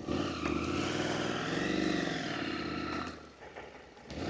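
Motorcycle engine running with a steady drone. It fades away about three seconds in, then picks up again near the end.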